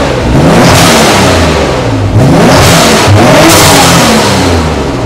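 Nissan 300ZX (Z32) VG30DETT twin-turbo V6 being revved in several blips, its pitch climbing and dropping back each time.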